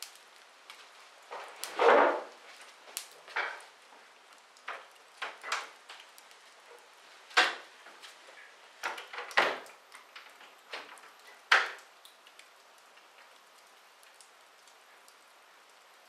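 Wood fire crackling in a fireplace: irregular snaps and pops, a handful of loud ones among many small ticks, over a faint hiss. The crackling thins out near the end.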